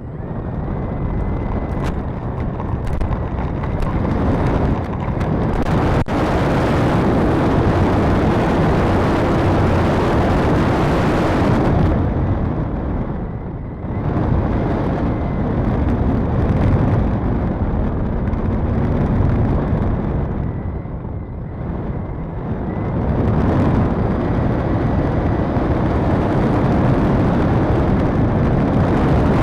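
A loud, steady rush of wind buffeting the microphone, easing off briefly twice before building up again.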